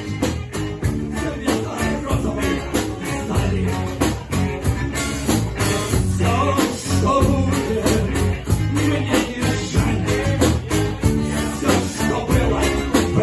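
Rock band playing: a fast, driving drum beat with guitar and bass.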